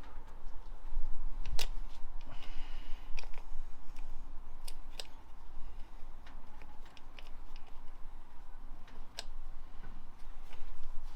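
Irregular clicks and clinks of metal hand tools and sockets being handled and sorted, with a brief rattle about two seconds in.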